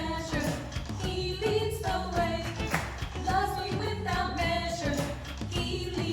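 Sung worship song with voices over an instrumental backing track with a steady beat.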